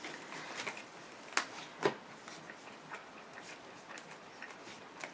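Trading cards being handled on a table: faint rustling, with two sharp taps about a second and a half in, half a second apart.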